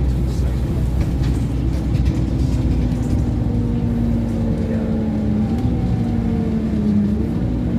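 Scania OmniCity N230UD double-decker bus on the move, heard from inside: a steady engine and road rumble, with a whine joining about three seconds in and edging up slightly in pitch as the bus picks up speed.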